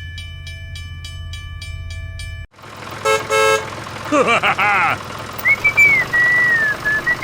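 A dubbed sound-effect track. A steady hum with a ticking beat and held tones cuts off suddenly about two and a half seconds in. Then come a short double horn toot, warbling swooping sounds, and a long wavering whistle-like tone.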